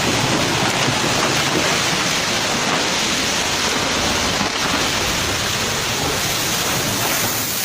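Loud, steady rush of floodwater: a dense, unbroken water noise with no pauses.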